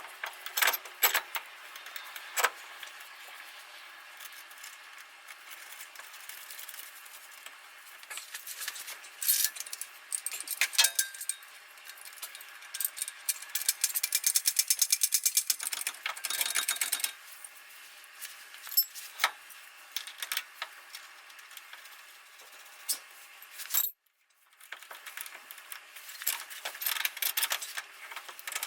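Metal hand tools and suspension parts clinking and rattling during work on a 1973 VW bus's front suspension. There are scattered sharp clicks, a quick run of rapid, evenly spaced clicks in the middle, and a brief cut-out near the end.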